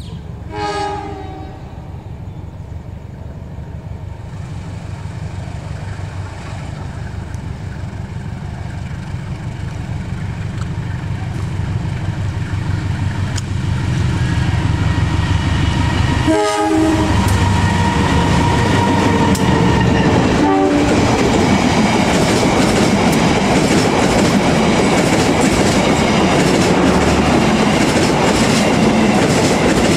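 CC201 diesel-electric locomotive hauling a passenger train straight through a station without stopping. Its engine rumble and the wheels' clickety-clack grow steadily louder as the train nears and passes close by. There is a short horn toot about a second in and two more short toots about two-thirds of the way through.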